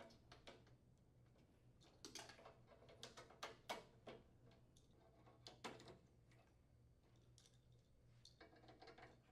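Faint clicks and taps of plastic spark switches being snapped onto gas range burner valves, in a few short clusters.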